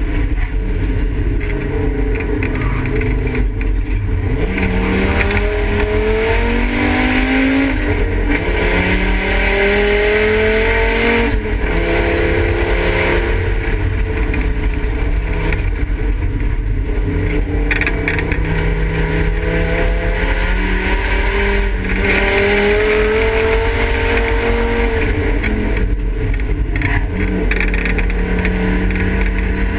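Volvo 850's five-cylinder engine under hard acceleration, heard from inside the stripped race-car cabin. Its note climbs in pitch through the revs and drops back at each gear change, several times over.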